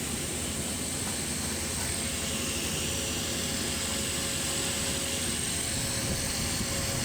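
Engine running steadily, an even mechanical drone with no change in speed.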